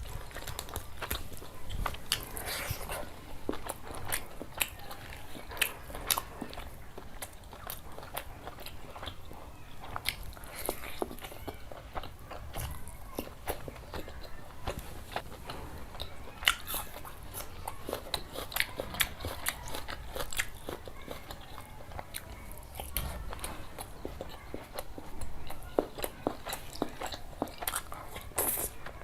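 A person chewing and biting food up close, with frequent sharp crunches and clicks at irregular intervals.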